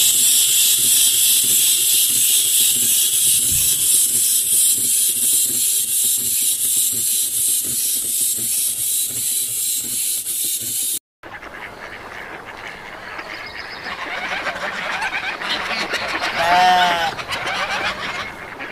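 A steady loud high hiss for about the first eleven seconds, which stops suddenly. A Canada goose then honks once, loud, about three-quarters of the way through, over a busy waterfowl background.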